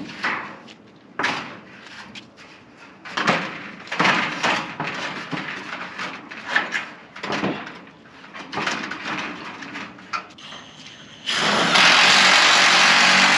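Irregular clattering and scraping of building materials being handled, then a power tool runs loudly and steadily for about two seconds near the end.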